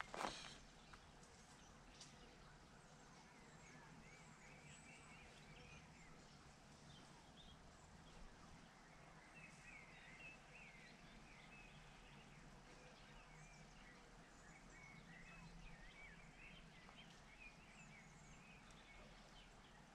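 Near silence: faint outdoor ambience with small birds chirping softly now and then, after one sharp knock just after the start.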